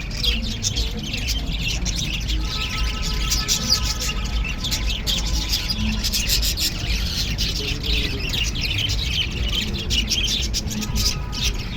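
Many small birds chirping rapidly and continuously, their calls overlapping, over a steady low rumble.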